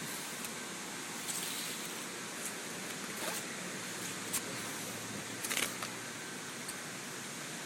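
Steady outdoor background hiss with a few short clicks and rustles, about four of them, from a phone being handled while filming.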